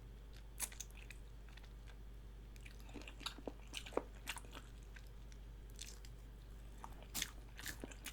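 Close-miked mouth sounds of someone chewing food with lips slightly open: sparse wet clicks and smacks, a few grouped together about three seconds in and again near the end.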